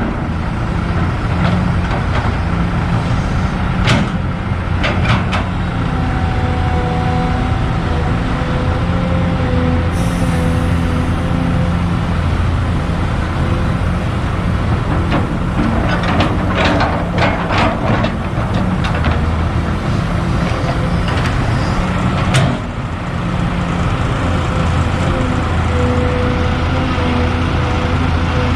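Kobelco SK200 hydraulic excavator at work: its diesel engine runs steadily with a hydraulic whine that comes and goes, and several sharp knocks and clatters, clustered about two-thirds of the way through. A short hiss comes about a third of the way in.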